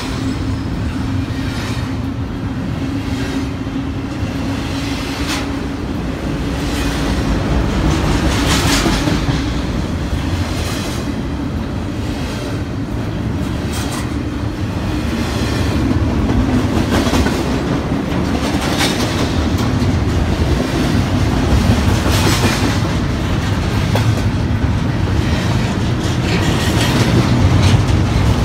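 A train rolling past: a steady rumble, with its wheels clacking over rail joints every couple of seconds.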